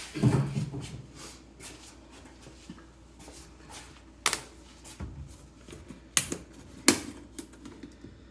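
Handling of plastic motor-oil jugs and caps: a low thud in the first second, then a few scattered sharp plastic clicks and taps, the loudest near the end.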